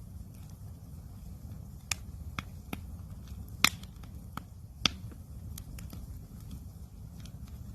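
Wood campfire crackling: irregular sharp snaps and pops, two of them louder a little past the middle, over a low steady rumble.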